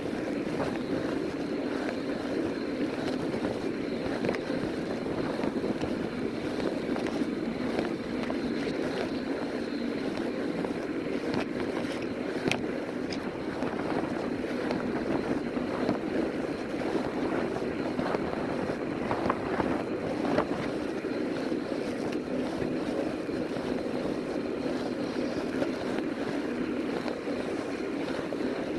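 Steady rush of wind and fat-tire rolling noise from an electric fat-tire bike riding along at speed, with a faint thin high tone throughout and a few sharp clicks around the middle.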